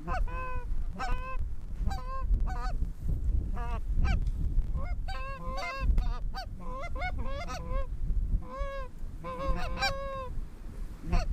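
Geese honking and clucking: many short calls, often several a second and overlapping, as a small flock works over the decoy spread.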